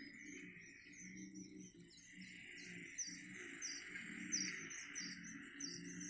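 A bird chirps repeatedly in short, falling, high notes, several a second, growing busier after a couple of seconds, over a steady high insect buzz from the reedbed. Soft background music plays underneath.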